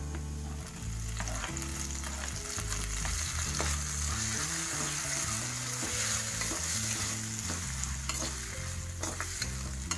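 Vegetables and chopped tomatoes sizzling in hot oil in a pan, with a steel spatula stirring and scraping against the pan in short strokes.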